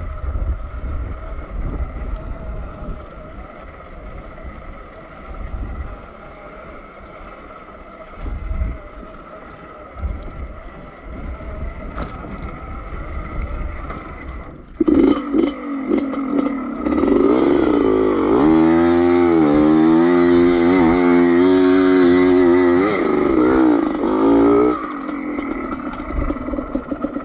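Two-stroke 125 cc enduro motorcycle engine: a low rumble for about fifteen seconds, then a loud engine note comes in, rising and falling in pitch as it is revved again and again, before dropping back near the end.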